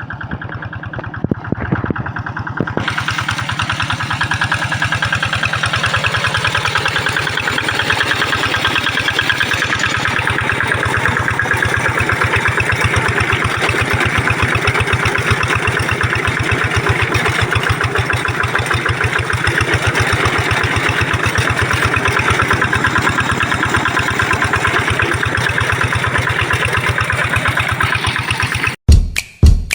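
Single-cylinder engine of a Kato hand tractor running steadily under plowing load, with an even, rhythmic firing beat. Drum-kit music cuts in about a second before the end.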